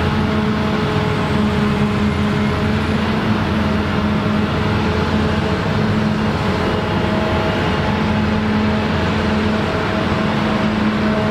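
Claas Lexion combine harvester running steadily while harvesting rye: a constant engine drone with several steady humming tones over a wide noise of the threshing machinery.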